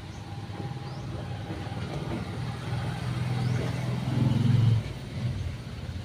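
A motor vehicle engine running with a low steady hum. It grows louder over a couple of seconds, then drops off sharply about five seconds in.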